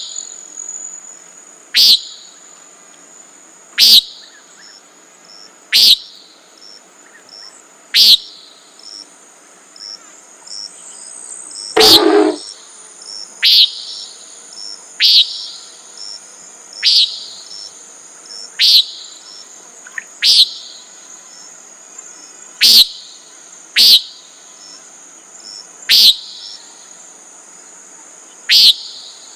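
Common nighthawk giving its short, sharp peent call over and over, about every two seconds, with one longer, lower-reaching call about twelve seconds in. A steady high insect trill runs behind the calls.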